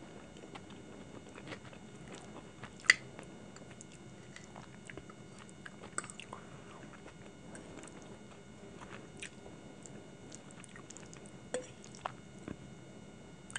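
Close-miked chewing of saucy Hakka noodles and chicken Manchurian, with small wet clicks scattered throughout. One sharp click comes about three seconds in.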